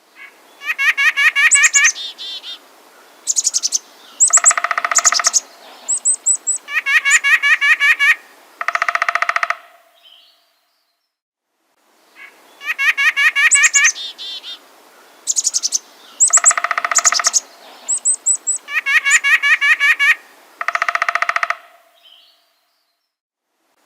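Small birds chirping and calling in rapid series of sharp chirps, trills and buzzy calls. The same sequence of about ten seconds plays twice with a short silent gap between, as in a looped bird recording.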